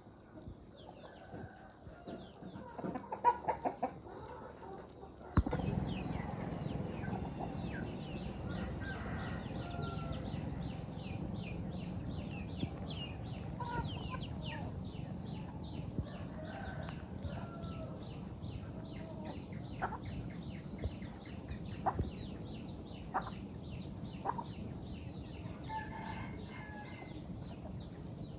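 Farm chickens clucking in short scattered calls. About five seconds in the background changes abruptly, and a fast run of shrill, high chirping carries on above the clucks, with a few sharp ticks now and then.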